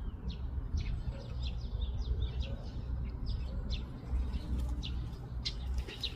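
Small birds chirping, many short quick calls one after another, over a steady low rumble.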